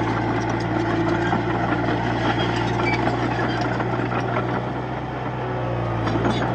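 Komatsu D31-P bulldozer's diesel engine running steadily, with a slight dip in level about five seconds in.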